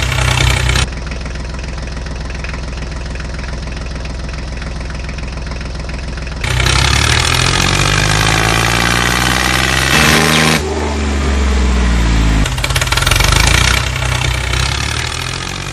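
Tractor engine running and revving, its pitch rising and falling around the middle. The sound is made of several segments joined with abrupt cuts.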